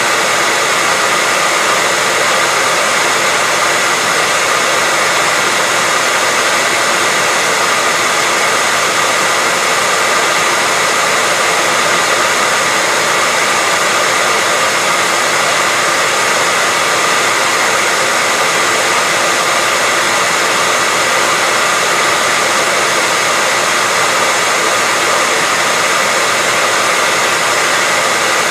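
Electric hair dryer running continuously, a steady loud whoosh of blown air with a faint whine from its fan motor, never changing.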